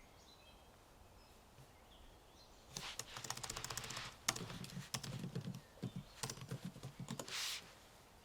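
Typing on a computer keyboard: a quick run of key clicks starts about three seconds in and lasts about five seconds, ending in a brief longer rustle of noise. Faint bird chirps are heard before the typing.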